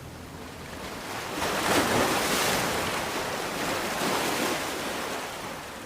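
Ocean surf: a wave swells in about a second and a half in, then slowly washes out.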